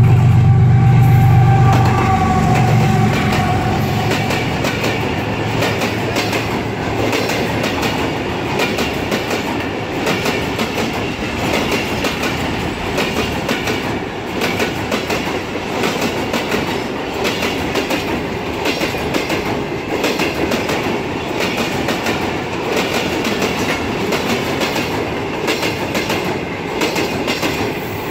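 Passenger express train passing at speed. The diesel locomotive's engine hum is loud at first and fades within the first few seconds. Then the coaches' wheels rumble and clatter steadily over the rails of the bridge.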